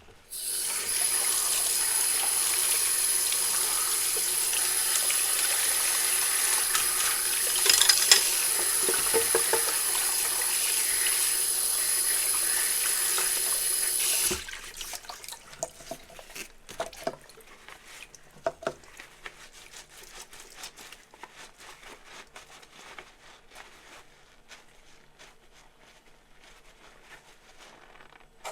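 Kitchen tap running steadily into a sink as dishes are rinsed, splashing louder for a moment about a quarter of the way in, then shut off suddenly about halfway. After that, quiet scattered clinks and taps of dishes being handled.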